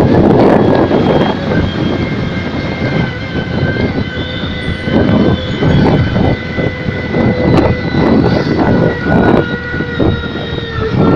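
Yamaha New Megapro motorcycle fitted with a sound booster, running loud with steady high tones over it and repeated swells in level from about four seconds in, like blips of the throttle.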